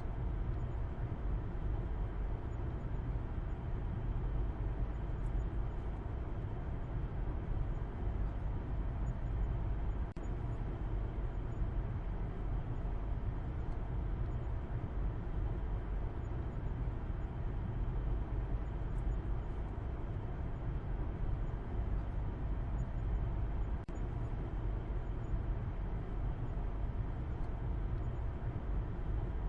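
Car driving at a steady speed: a constant low rumble of road and engine noise, heaviest in the bass, with brief slight dips about ten seconds in and again near twenty-four seconds.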